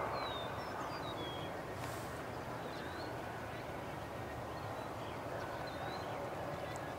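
Small birds chirping briefly now and then, high and thin, over a steady outdoor background hiss.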